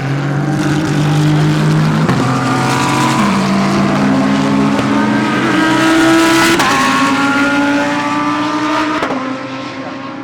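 GT3 race car engines at full throttle, the pitch climbing through the gears with sharp upshifts about two, three, six and a half and nine seconds in. The sound is loudest just after the middle and fades near the end as the cars pass.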